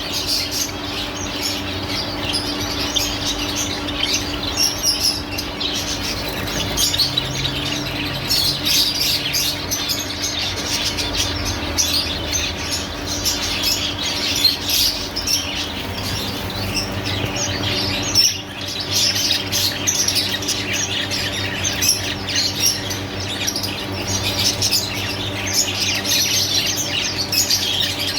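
Many small cage birds (finches and canaries) chirping and calling at once, short high notes overlapping without pause, over a faint steady low hum.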